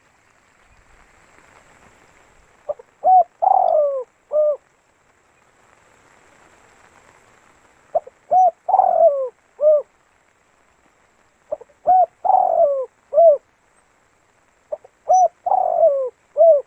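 Spotted dove (tekukur) cooing: four phrases, each a couple of short coos, a longer falling coo and a short closing coo, repeated every three to four seconds.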